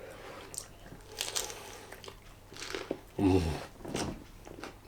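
A person chewing a mouthful of chicken wrap, with small crunching and crinkling noises and a short hum of the voice about three seconds in.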